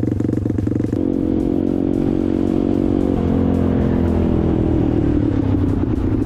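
Motorcycle engine running at steady revs, with a change about a second in, then the revs winding down over the following few seconds.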